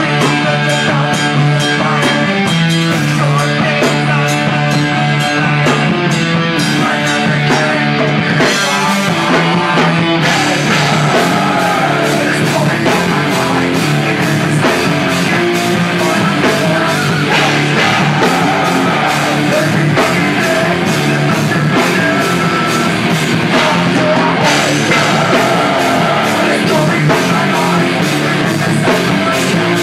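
Live heavy rock band playing loud: distorted electric guitars, bass and a fast steady drum beat, with vocals. The arrangement shifts about eight seconds in and again after twenty-four seconds.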